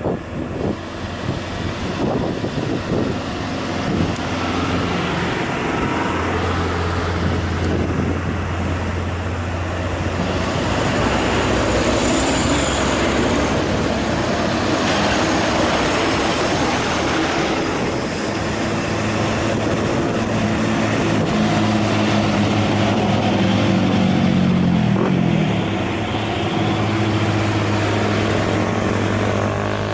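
Heavy truck diesel engine running under load on a climb, a steady low drone throughout. A high thin whine sounds over the middle, and the engine note dips and recovers about twenty-five seconds in.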